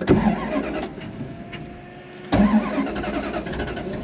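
1973 Plymouth Cuda's V8 engine heard from inside the cabin, revving as the car pulls away. It eases off, then surges loud again about two and a half seconds in.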